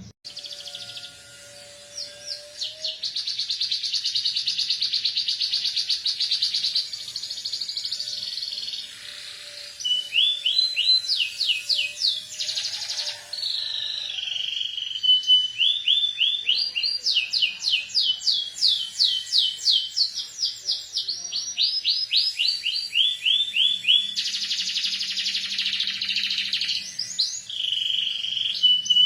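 Canary singing vigorously in long, fast trills of rapidly repeated rising notes, switching from one trill phrase to the next, with ciblek gunung (prinia) phrases learned into its song.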